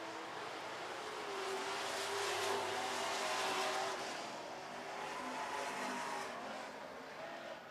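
Super Truck race engines running around a dirt oval, their pitch gliding up and down as the trucks pass, swelling twice and fading near the end.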